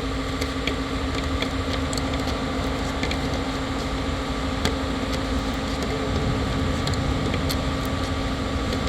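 A steady machine hum holding one constant low tone, with scattered light clicks and ticks of small parts being handled.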